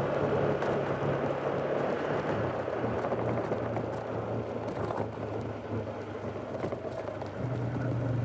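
Fuel-injected Polaris ATV engine running at a steady trail pace, its note easing a little a few seconds in and picking up again near the end. Scattered clicks ride over the engine noise.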